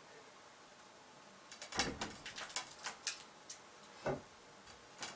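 Quiet at first, then a quick run of sharp clicks and knocks for about two seconds, and one more knock about four seconds in: the clatter of hand work on the wooden house.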